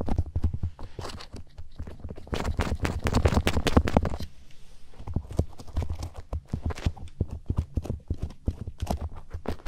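Daruma doll being tapped and handled close to the microphone: a rapid, irregular run of hollow knocks and clicks that eases off briefly about four seconds in, then picks up again.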